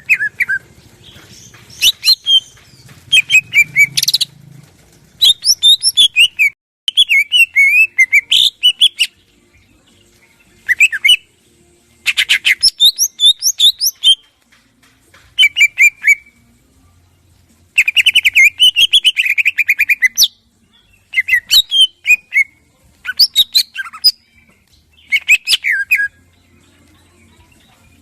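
Greater green leafbird (cucak ijo) singing in loud phrases of rapid chirps and trills, each lasting one to three seconds with short pauses between them.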